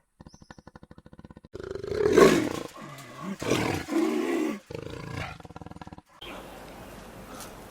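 Wild cat growling and roaring: a fast rattling growl, then several loud drawn-out calls, then the rattling growl again. The recording cuts off about six seconds in, giving way to a steady low outdoor background.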